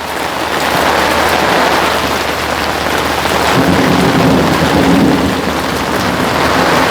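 Heavy rain falling on an umbrella and mosquito net, a dense steady patter. A low rumble of thunder swells in about halfway through and fades a couple of seconds later.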